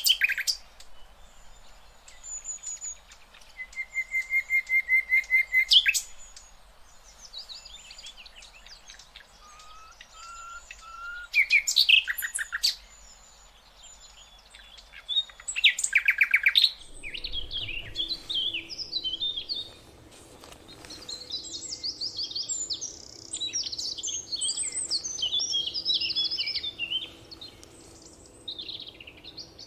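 Songbirds singing: separate phrases of fast trills and rapidly repeated notes, then from about halfway through a denser, jumbled twittering over a faint steady hum.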